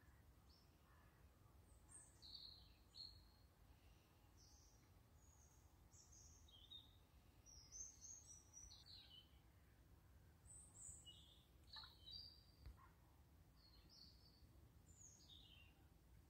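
Faint birdsong: short, high chirps and brief sliding notes, scattered irregularly, over a low faint rumble of background noise.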